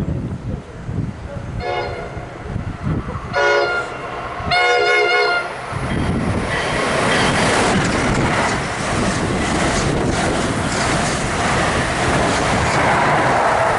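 NJ Transit electric train sounding its horn in three blasts, the last the longest. About six seconds in it passes at speed: a loud rush of wheels and cars clattering over the rails.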